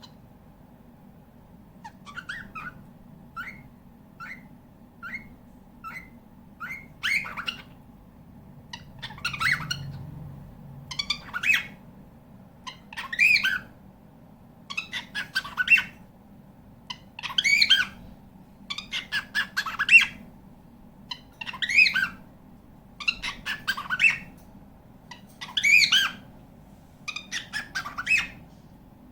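Cockatiel calling: starting about two seconds in with a run of short, soft chirps about twice a second, then louder, longer calls repeated roughly once a second.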